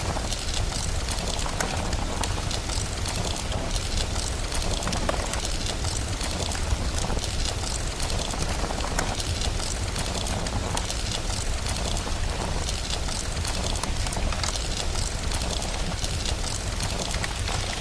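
Steady rain with a continuous low rumble underneath and many small crackles of a wood fire scattered through it.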